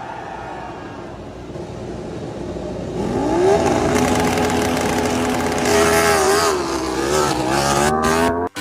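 MotoGP racing motorcycle engine: a rumble that grows louder, then about three seconds in a note that rises and holds high and steady, wavering up and down near the end before the sound cuts off abruptly.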